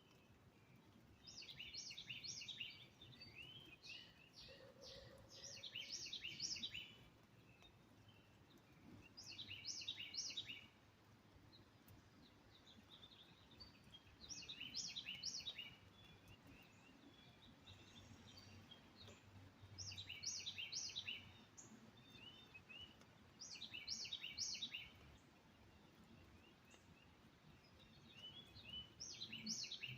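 A songbird singing, repeating a short phrase of rapid high notes about every four to five seconds, seven times in all. A faint steady hiss runs underneath.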